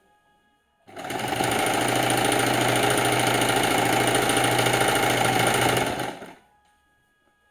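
Sewing machine running for about five seconds, starting about a second in and stopping near the end: a steady hum under a fast, even stitching rattle. It is the noise the sewer calls strange.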